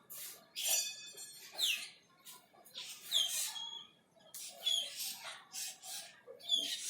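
Cucak keling calling: a series of harsh, scratchy calls, several of them ending in a short falling whistle.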